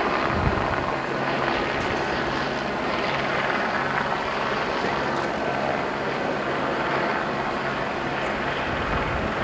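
Helicopter flying overhead: a steady drone of rotor and engine.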